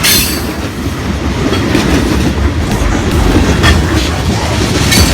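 Long freight train's last cars rolling past on the rails: a steady rumble with sharp clicks of the wheels over rail joints.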